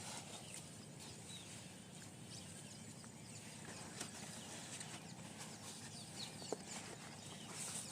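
Faint outdoor ambience: a steady low hum with scattered short bird chirps and a few light ticks.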